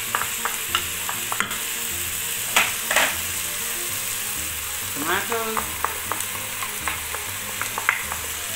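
Chicken and diced yellow bell pepper sizzling as they fry in an electric pressure cooker's inner pot on the sauté setting, with a steady hiss. A wooden spoon stirs through them, making scattered clicks and scrapes against the pot, a few louder strokes among them.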